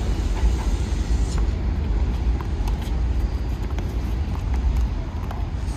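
Steady low outdoor rumble with a few faint, sharp knocks of a small handball being struck during a rally.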